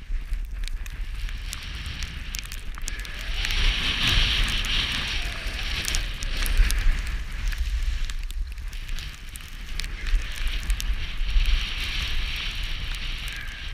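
Skis hissing and scraping over snow, the hiss swelling twice, over a low rumble of wind buffeting the microphone, with scattered small clicks.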